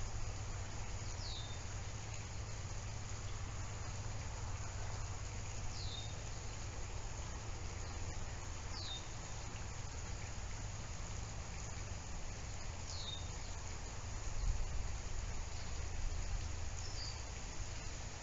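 Steady outdoor background noise with a low hum, over which a bird gives a short, high call that slurs downward, five times a few seconds apart.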